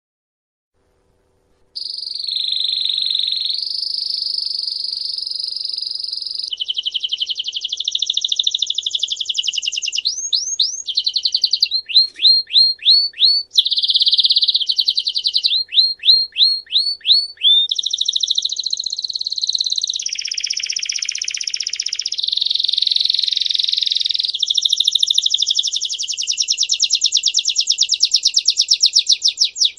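A songbird singing a long unbroken song after a brief silence at the start. The song is made of high rolling trills and fast repeated notes, with a run of quick downward-sweeping notes near the middle.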